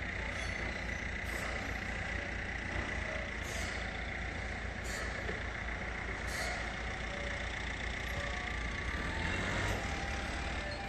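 Heavy truck running with a steady low rumble and a constant high whine, with four short hisses in the first two-thirds.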